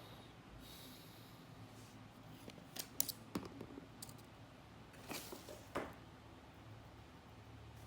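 A few light clicks and knocks from hard parts being handled: a small cluster about three seconds in, then two more near the middle, over a faint steady hum.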